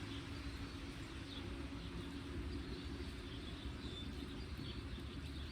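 Scattered faint, short, high bird chirps over a steady low rumble.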